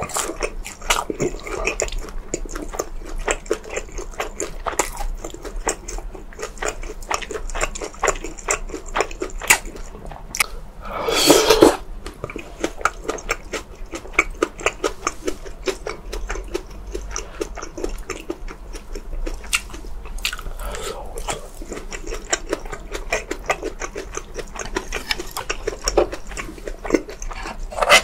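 Close-miked chewing and mouth sounds of a person eating: a steady stream of small wet clicks, with one louder burst lasting about a second, about eleven seconds in.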